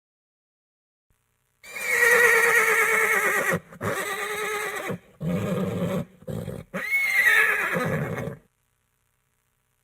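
Horse whinnying: a loud, quavering neigh starts a little under two seconds in, breaks into lower, rougher calls, and ends with a second, shorter whinny that rises and then falls in pitch, stopping about eight seconds in.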